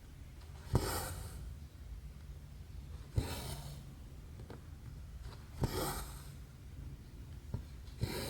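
Cross-stitch needle pushed through the fabric with a sharp click, then the thread drawn through with a short hiss, repeated four times about every two and a half seconds. A steady low hum runs underneath.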